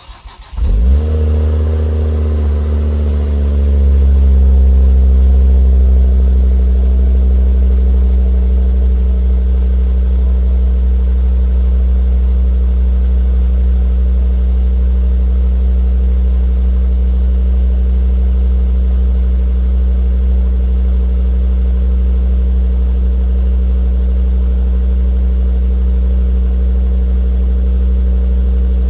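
2009 Volvo C30 T5's turbocharged five-cylinder engine heard through its exhaust, starting up about a second in, running briefly higher and then settling into a steady idle.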